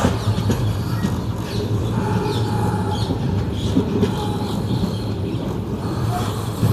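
A passenger train running along the track, a steady rumble with no breaks.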